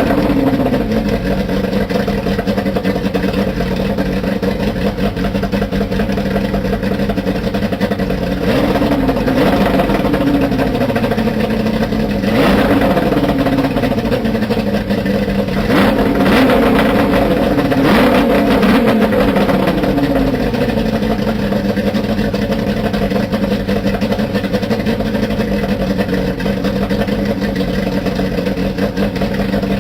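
Johnson two-stroke outboard motor running, its pitch rising and falling several times as the throttle is opened and eased off, then holding steady. Twice near the middle there is a brief rush of noise.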